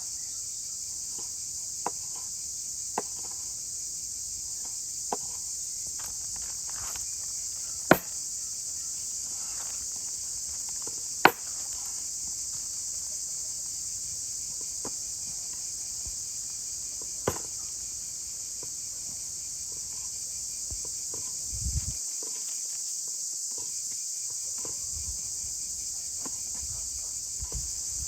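A steady, high-pitched chorus of insects chirring, with a few sharp knocks scattered through it, the loudest two about eight and eleven seconds in.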